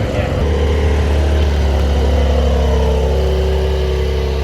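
A car engine running at a steady idle: a loud, even low drone that sets in about half a second in.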